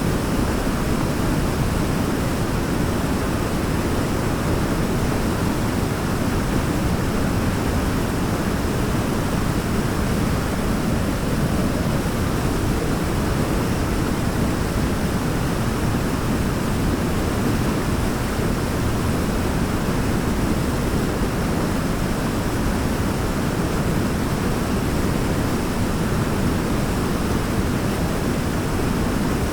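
Waterfall rushing, a steady, even wash of noise weighted toward the low end, with no change in level.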